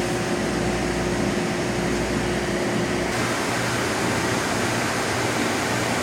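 Steady hum and hiss of cafe refrigeration and fans. A steady low tone and the deepest part of the hum stop abruptly about three seconds in, as if one machine has shut off.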